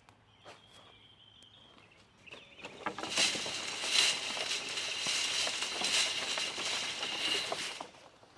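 Wood chips being sifted, a dense rattling patter of many small chips that builds up about two seconds in, runs steadily for about five seconds and stops near the end.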